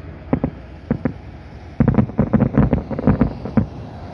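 Distant aerial firework shells bursting: two pairs of bangs, then a rapid string of about a dozen bangs from about two seconds in, over a steady low rumble.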